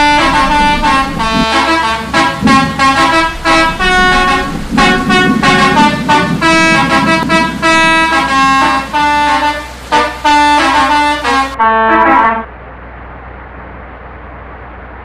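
Indonesian bus 'telolet' horn, a set of multi-tone air horns, playing a quick tune of loud honked notes in several pitches at once. It cuts off suddenly about twelve seconds in, leaving a steady, much quieter background noise.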